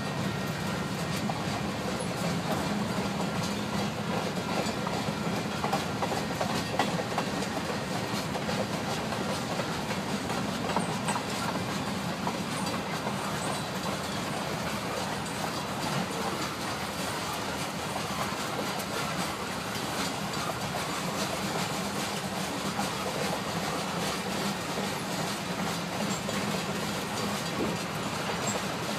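Union Pacific freight train's cars rolling past steadily, their wheels clattering over the rails.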